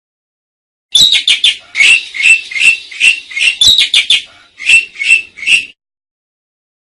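Asian pied starling (jalak suren) singing: a fast run of harsh, chattering and whistled notes starting about a second in and lasting about five seconds, then cutting off suddenly.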